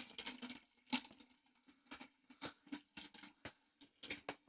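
Faint water running fades out in the first half second, then about a dozen faint, sharp ticks and taps follow at irregular intervals over a low steady hum.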